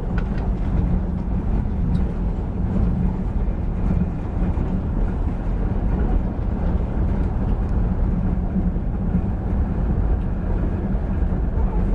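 Moving passenger train heard from inside the carriage: a steady low running noise of the wheels on the rails.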